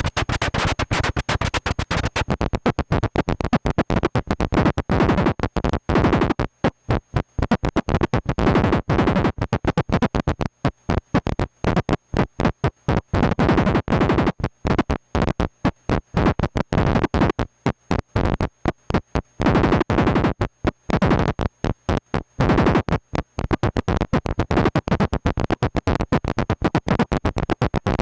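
Korg MS-20 analogue synthesizer through a Boss DD-5 delay pedal, playing an 'engine stall' patch: a rapid, stuttering chatter of choppy noisy pulses, broken by irregular short dropouts, like a sputtering engine.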